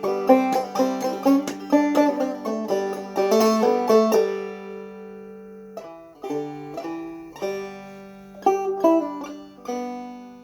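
Open-back Deering banjo with a 20-hole flathead tone ring, played clawhammer style: quick, dense picked notes over a steady drone for about four seconds, then the notes ring out and the playing slows to sparse, separate notes.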